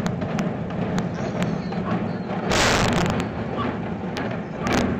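Implosion of a 31-story reinforced-concrete tower: a rapid string of sharp bangs and pops from the demolition charges over a continuous low rumble, with a louder burst about two and a half seconds in and another near the end.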